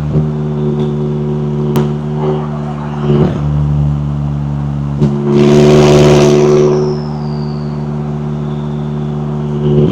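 McLaren 570S twin-turbo V8 idling at a steady pitch, blipped briefly a few times and then revved harder for about a second and a half around the middle, followed by a falling whistle as the revs drop back to idle.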